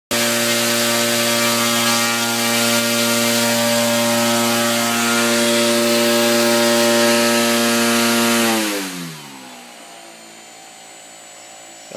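RC airplane motor spinning its propeller at a steady high speed, a loud whine, then throttled off about eight and a half seconds in and winding down with a falling pitch to a stop.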